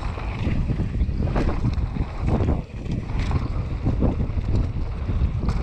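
Wind buffeting the microphone and mountain-bike tyres rumbling over a dirt trail on a fast downhill run, with frequent short knocks from bumps.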